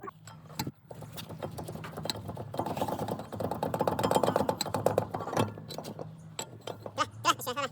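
Rapid mechanical clicking and clattering, densest in the middle few seconds, with scattered single knocks over a steady low hum.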